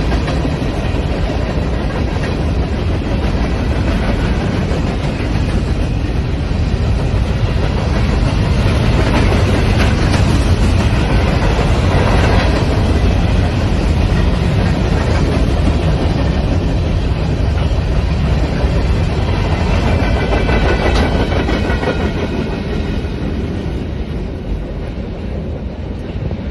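Cars of a mixed freight train rolling past steadily, the sound slowly fading over the last few seconds.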